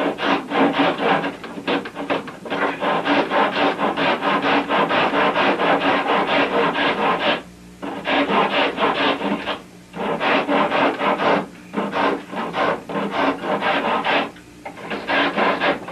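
Round rasp scraping wood in runs of quick back-and-forth strokes, broken by a few short pauses, as the cut-outs in a canoe stem are shaped for the ribs.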